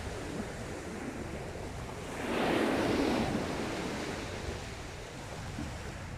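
Sea waves breaking on the shore: one wave swells up with a rushing wash about two seconds in, then fades slowly back into the steady surf.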